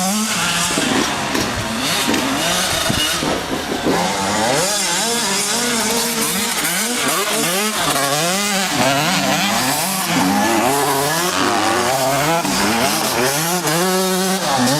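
An 85cc two-stroke motocross bike engine being ridden hard, its pitch climbing and dropping again and again, about once a second, as the throttle is opened and closed.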